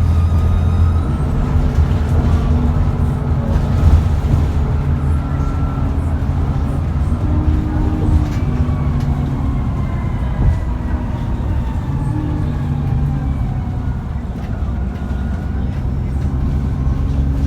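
Cummins ISBe 6.7-litre diesel of an ADL Enviro400 double-decker bus running on the move, with a high turbo whine over the engine note. Through the second half the whine slides slowly down in pitch.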